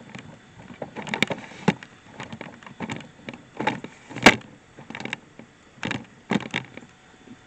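A series of irregular knocks and clatters, like things being handled and set down, the loudest a little past halfway.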